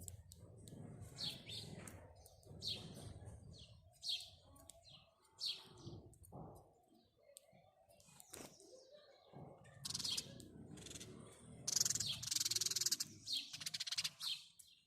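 House sparrows chirping: single chirps spaced about a second apart, then a louder run of rapid chirping in the last few seconds, over a low background rumble.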